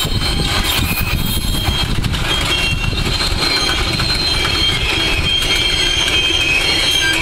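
Loaded freight wagons rolling past: a steady rumble of steel wheels on the rail, with high squealing tones from the wheels above it.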